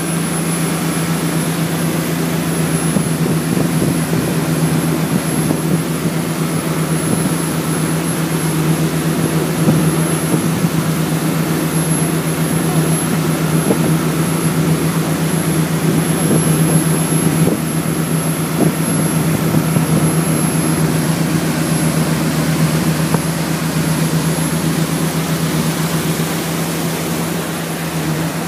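Yanmar marine diesel pushing the boat along at steady cruise throttle, about 3,300 to 3,500 RPM, heard as a continuous low drone over a steady rush of noise.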